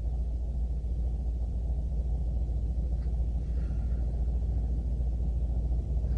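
A steady, deep background rumble, the low drone of a sound-effect ambience.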